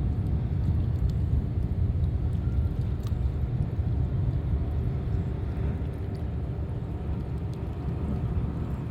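A steady low rumble, with no distinct events.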